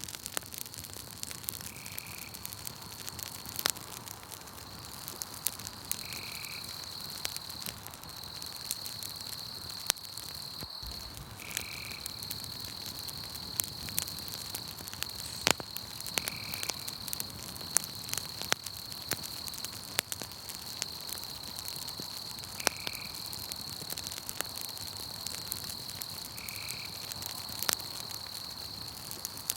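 Campfire burning, its wood crackling with frequent sharp pops, over a steady high insect trill and a short chirp that repeats every four to six seconds.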